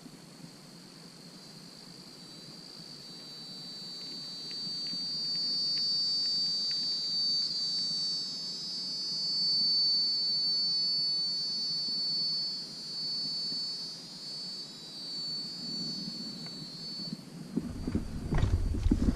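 A high, steady insect drone of several close tones that swells over a few seconds and fades out after about fourteen seconds. Near the end, a louder rumble with sharp knocks sets in.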